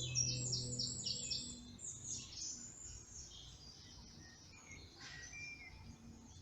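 Woodland birdsong: a songbird singing quick runs of rapid high repeated notes, loudest in the first couple of seconds and then fainter. Soft music with steady low notes fades out about a second and a half in.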